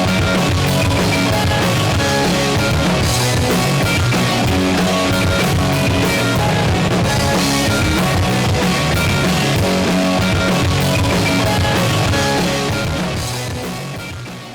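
Pop-punk band music with drum kit and electric guitars, fading out near the end.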